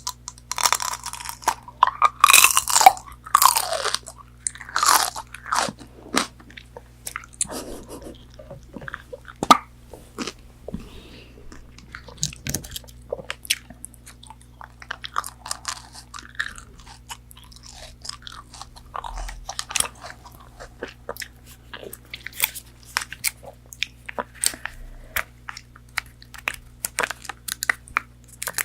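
Crunchy bites into McDonald's chicken nuggets, several loud crunches in the first few seconds, then steady chewing full of small crisp crackles.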